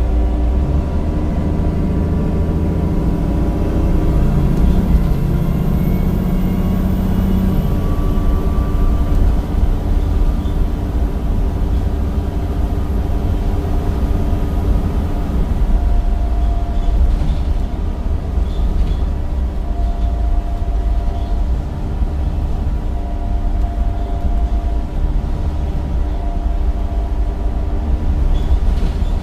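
Bus with a Cummins diesel engine and ZF gearbox running under way: a steady low drone with a thin whine over it. The engine note drops about seven and a half seconds in.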